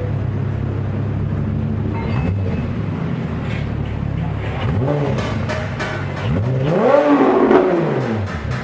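Porsche 911 Carrera 4 GTS flat-six engine through an aftermarket MufflerDesign exhaust, idling and then blipped: short revs about two and five seconds in, then a bigger rev near the end that climbs and falls back.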